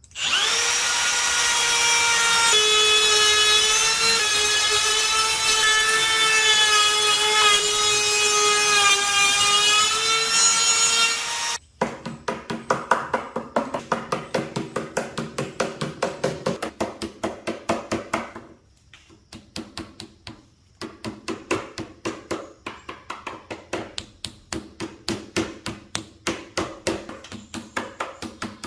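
Battery-powered jigsaw cutting with a steady, slightly wavering motor whine for about twelve seconds, then cutting off suddenly. After that comes a run of rhythmic rubbing strokes, about three a second, with a short break in the middle, like hand-sanding or filing the cut edge.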